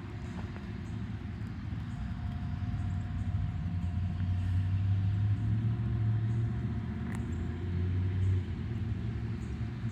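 Car driving, a steady low engine and road rumble that swells slightly in the middle, with a faint steady whine above it.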